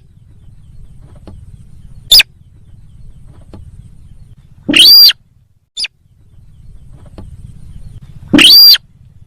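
Lure recording of the sintar sawah bird's call: a short, sharp call about two seconds in, then two longer calls about five and eight and a half seconds in, each rising then falling in pitch, with a faint brief call between them. The calls are loud over a faint low hum.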